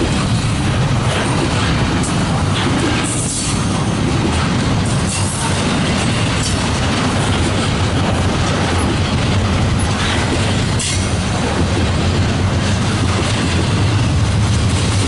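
Freight train rolling past: a steady, loud rumble of wheels on rail, with a few short, sharp higher sounds from the wheels now and then.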